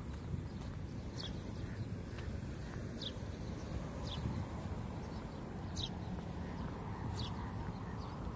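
Outdoor ambience: a steady low rumble of wind on the microphone, with short high bird chirps every second or two.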